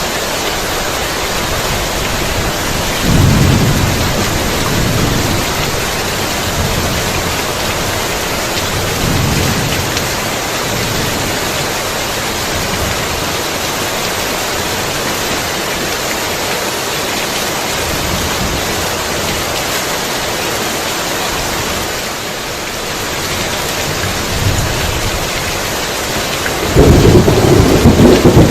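Heavy rain falling steadily with rolling thunder. Low rumbles swell about three seconds in and again near nine seconds, and a louder peal of thunder breaks near the end.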